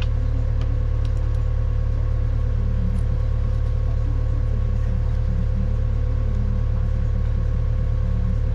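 An engine idling steadily with a constant low rumble and hum, and no hammer strikes or other sudden sounds over it.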